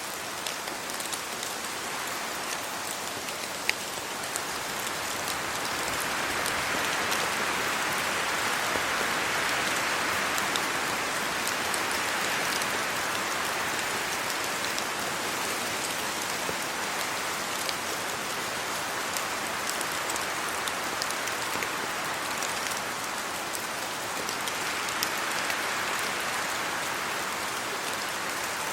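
Steady rain falling on trees, leaves and the road, with many sharp individual drop ticks. The wind rushes through the leaves and swells up about six seconds in, then again near the end.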